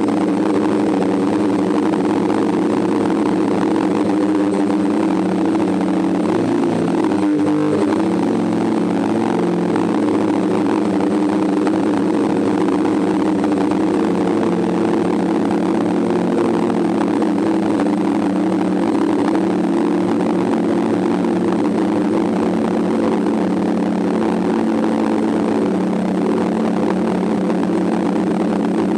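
DJI F550 hexacopter's six electric motors and propellers humming steadily in flight. The pitch wavers briefly about seven seconds in as the motors change speed.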